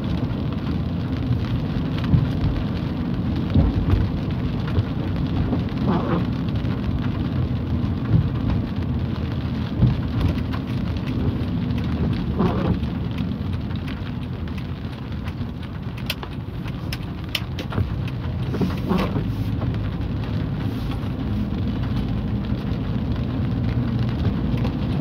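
Light rain and tyres on a wet road heard from inside a moving car's cabin, over the car's steady low rumble.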